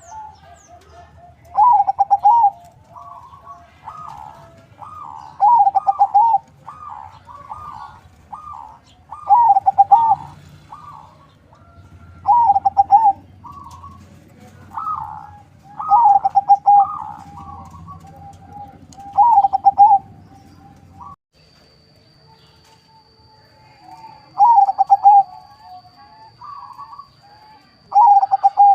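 Perkutut (zebra dove), a local × Bangkok cross, cooing. A loud cooing phrase comes about every four seconds with softer coos between, and there is a short pause about two-thirds of the way through.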